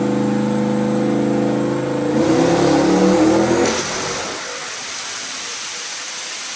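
Turbocharged small-block Ford V8 making a dyno pull under boost, its pitch climbing with the revs. About two-thirds of the way through, the throttle is let off and the engine note cuts out, leaving a loud rushing noise that slowly dies down.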